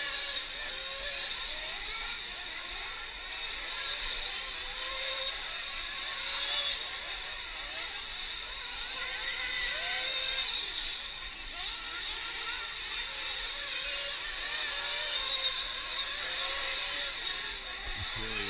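High-pitched whine of several 1/8-scale nitro RC truck engines racing on the track, their pitch rising and falling as the throttles open and close.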